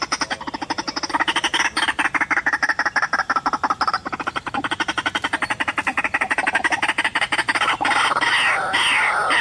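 White-breasted waterhen calling: a fast, rapidly pulsed croaking chatter, with the pitch sliding downward in stretches, growing louder near the end.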